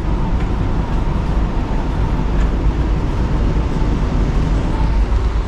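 VIA Rail passenger train running, heard from inside its glass-domed observation car: a steady low rumble with no distinct events.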